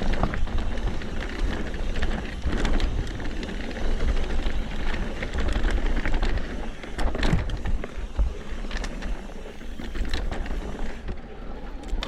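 Mountain bike riding a rough dirt trail: steady rumble of wind buffeting the microphone over tyre noise, with scattered knocks and rattles from the bike.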